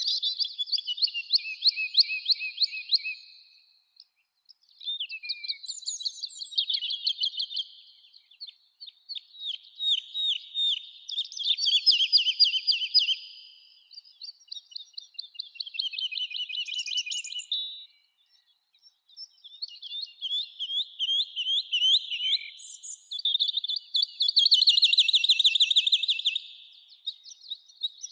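A songbird singing repeated phrases of rapid trilled notes, each phrase lasting about three to four seconds with short pauses between.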